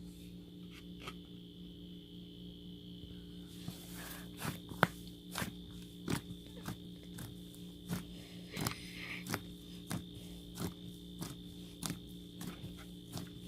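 Footsteps, about two steps a second, starting about four seconds in, over a steady hum.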